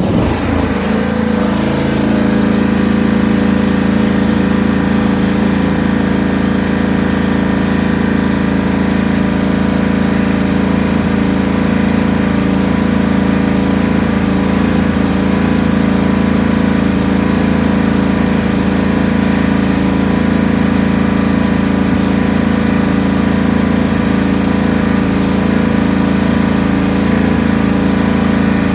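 Riding lawn tractor engine being brought up in speed in the first second or two, then running steadily at the raised throttle.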